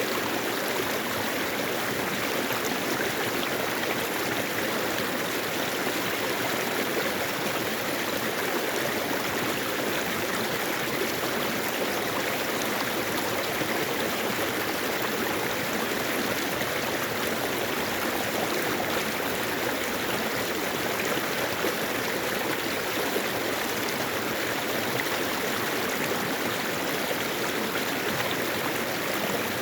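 A mountain stream flowing over rocks, a steady, even rush of water with no change.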